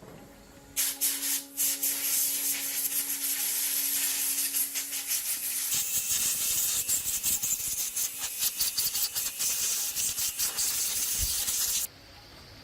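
Rapid, scratchy abrasive scrubbing by hand, as in sanding or wire-brushing rust off a metal part. It starts about a second in, runs in quick irregular strokes and stops abruptly near the end.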